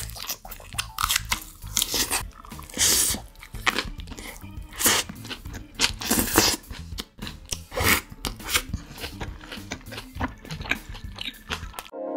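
Close-miked eating of a cheeseburger with lettuce: repeated crisp crunching bites and wet chewing, in irregular bursts.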